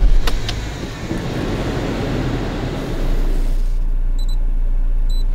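Skoda Octavia A7 engine idling as a steady low rumble, with two faint short high beeps about a second apart near the end.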